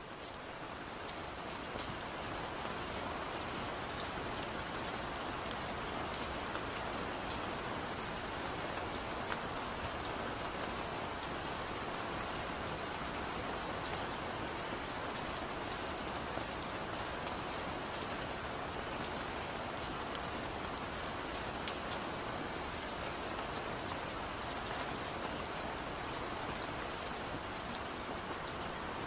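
Steady rain falling: an even hiss with scattered sharp taps of individual drops. It fades up from a brief dropout over the first second or two, then holds level.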